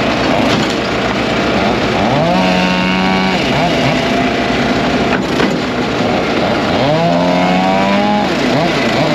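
Chainsaw revving up twice, each time holding high for about a second before dropping back, over the steady running of other engines.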